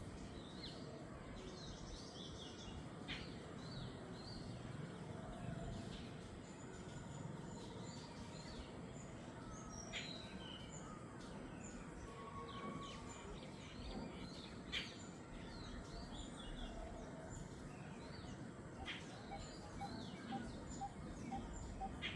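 Jungle bird chorus: many birds chirping and calling, with sharp whistled notes every few seconds, over a steady background hiss.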